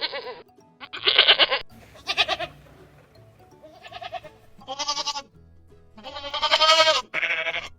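Goats bleating: a series of about six wavering bleats with short gaps between them.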